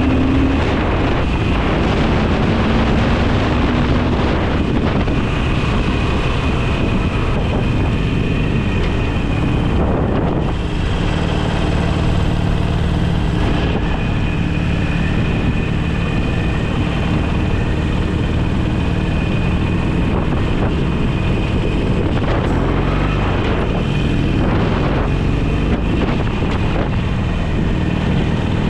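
Motorcycle under way at steady speed: the engine running with a continuous rush of wind over the microphone.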